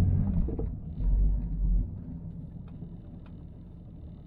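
Low rumble of a vehicle, heavy for about the first two seconds, then settling to a quieter steady hum with a few faint clicks.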